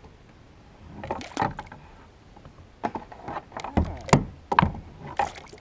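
Irregular knocks, clatters and rattles of fishing gear and a freshly landed fish being handled in a kayak, a cluster about a second in and a denser run of sharp knocks toward the end.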